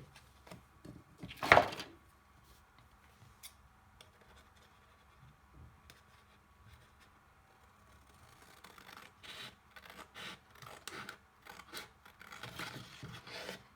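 Scissors cutting a sheet of cardboard along a fold line, a run of short snips and rubs in the second half. One loud, short handling sound of the card about a second and a half in.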